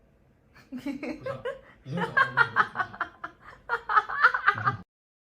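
A person laughing in quick repeated bursts, growing louder, then cut off abruptly near the end.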